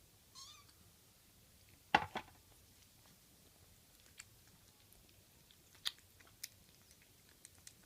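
Ginger tabby kitten eating, with sparse sharp crunches of chewing spread through and a louder cluster of clicks about two seconds in. A faint short mew sounds right at the start.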